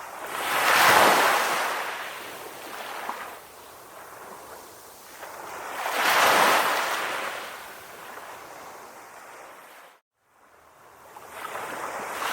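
Calm sea waves washing onto the shore, each one swelling and then fading, about five to six seconds apart. The sound cuts out for a split second about ten seconds in.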